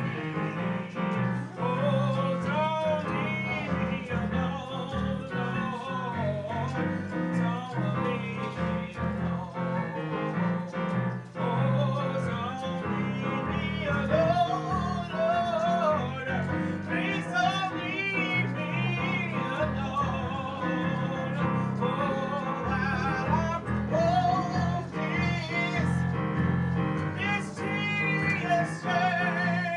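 Music: a singer with wide vibrato over a steady instrumental accompaniment.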